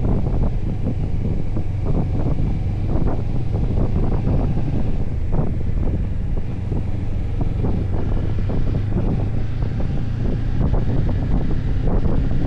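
Motorcycle engine running steadily at cruising speed, a low even hum, with wind buffeting the microphone while riding.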